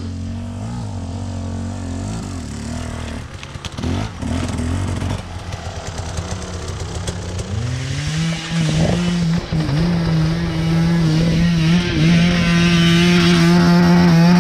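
Motorcycle engine running at low revs with a few knocks and clicks, then revving up about halfway through and holding a steady higher pitch, loudest near the end.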